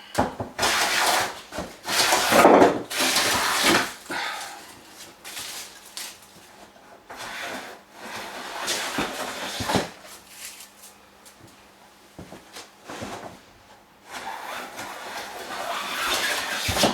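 Hand plane taking long shaving strokes along a wooden beam: a few rough strokes each a second or two long, the loudest near the start, with a quieter stretch in the middle and another long stroke near the end.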